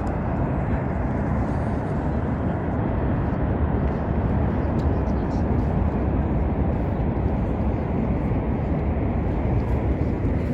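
Niagara Falls: the steady roar of its falling water, a dense, even rushing noise heaviest in the low range.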